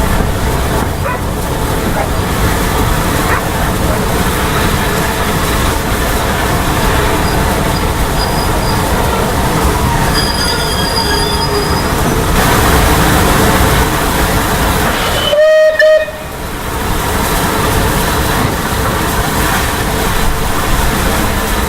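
A steam train running, with a steady loud rumble of the locomotive and its carriages. About fifteen seconds in there is one short, loud steam whistle blast.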